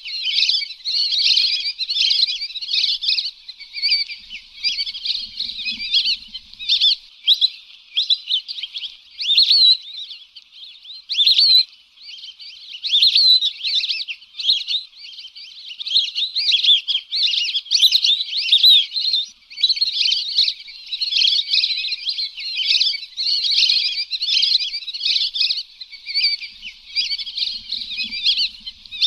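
A flock of lesser whistling ducks (Dendrocygna javanica) calling: a dense, unbroken chorus of overlapping high whistles and chirps, played as a hunting lure call.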